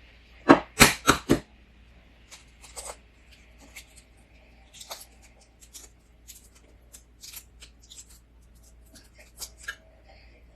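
Crisp crunching and crackling of balut being eaten or its shell handled close to the microphone: a quick run of four loud crunches about half a second in, then scattered small crackles.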